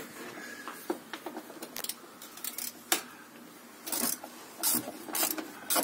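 Scattered light clicks and short rattles of hand tools and loose bolts being handled while an underbody guard is unbolted.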